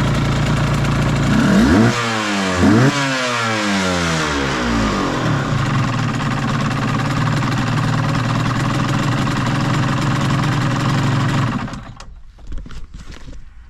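Suzuki RGV Gamma 250 SP's two-stroke V-twin with a Sugaya street chamber exhaust, idling, blipped twice in quick succession about two and three seconds in, the revs sweeping up and falling back. It then idles steadily until it is shut off near the end, leaving a few faint clicks. The seller states that the swapped-in engine has no abnormal noise.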